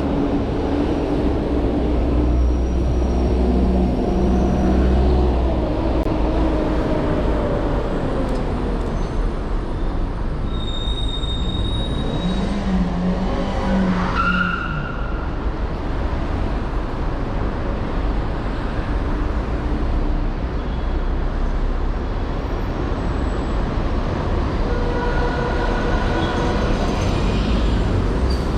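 City street traffic heard from a moving bicycle, with a steady low wind rumble on the microphone. Motor vehicles pass nearby, one most clearly about halfway through.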